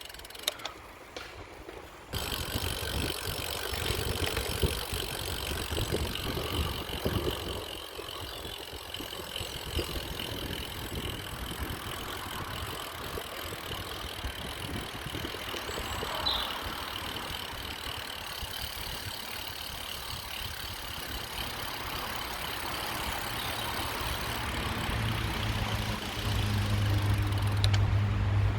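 Ambient sound of a bicycle ride: steady rolling rumble with small rattles and clicks. A motor vehicle's low engine hum builds over the last few seconds and is loudest near the end.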